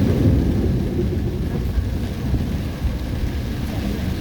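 Thunder rumbling low in a heavy rainstorm, swelling at the start and rolling on under the steady noise of rain.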